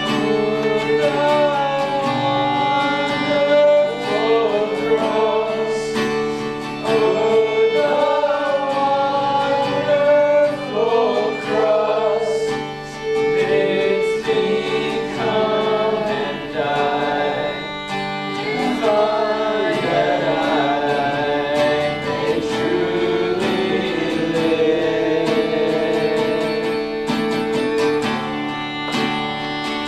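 Worship singing: voices holding long, sliding notes over a sustained guitar accompaniment.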